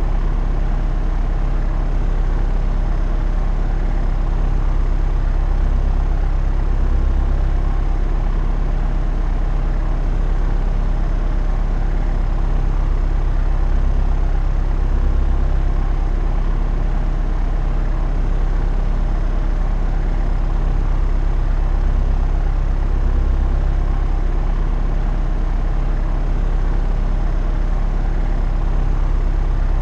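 Steady drone of a propeller aircraft's engine in cruise, a constant low hum with a faint even pulse.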